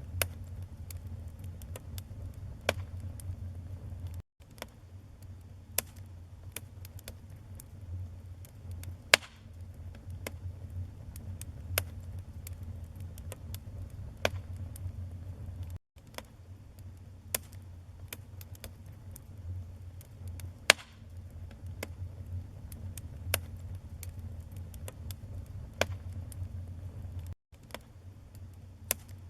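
Wood fire crackling and popping in a fireplace: irregular sharp cracks over a steady low rumble of flames. The sound cuts out for an instant three times.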